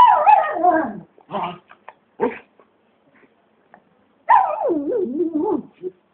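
A dog excited after a bath, giving two long wavering cries that fall in pitch, like screams, with short yips between them.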